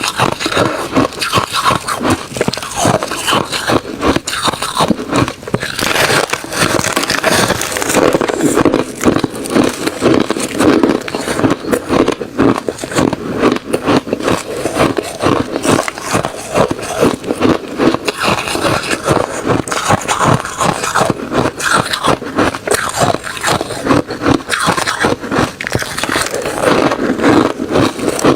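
A person chewing refrozen crushed ice and shaved ice, making loud, continuous crunching with crackly bites packed closely together.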